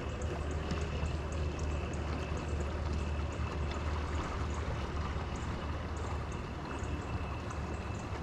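Choppy lake water sloshing and lapping against a kayak hull, with wind rumbling on the microphone.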